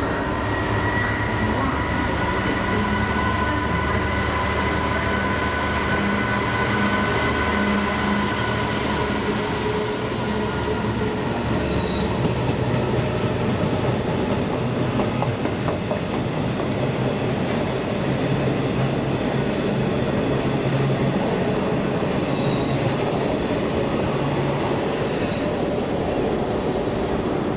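Diesel train running slowly through the station, its wheels squealing on the rails in long, steady high tones, over a low engine drone and occasional wheel clicks.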